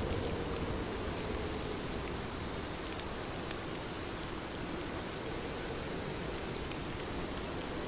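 Heavy rain falling steadily: a dense, even hiss with scattered sharper drop hits.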